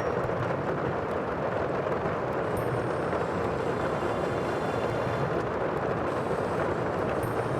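Sea ambience: a steady, even rush of surf and water with no single wave standing out.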